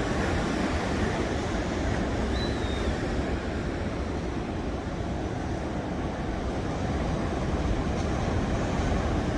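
Steady seaside wind and surf noise, with wind rumbling on the microphone. A faint, short bird call comes about two and a half seconds in.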